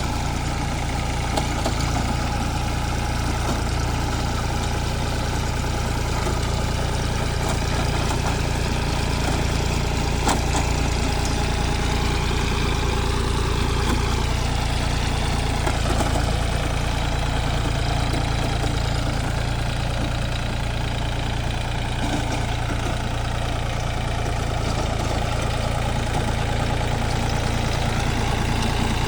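Mahindra Oja tractor's diesel engine idling steadily.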